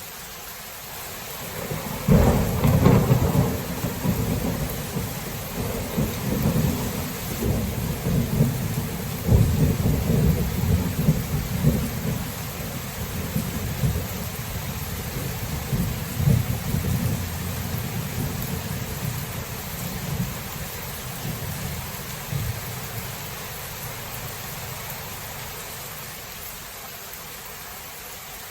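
Thunder during a rainstorm: a sudden clap about two seconds in, then rumbling that rolls on and dies away over some twenty seconds, over the steady hiss of rain.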